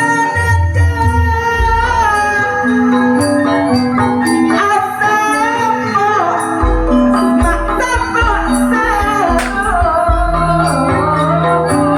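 Gending music played live through a loud sound system: mallet-struck notes stepping along, deep drum beats in the bass, and a sliding sung melody over them.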